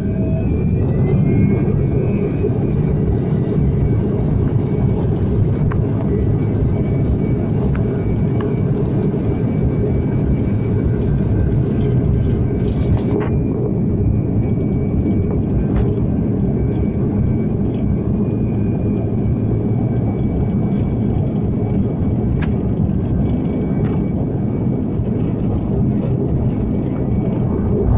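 Airliner jet engines running at takeoff power, a loud steady rumble with a faint whine that rises in pitch just after the start.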